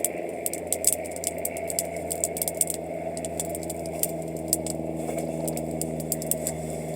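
Wood campfire crackling, with frequent sharp pops and snaps, over a steady low hum.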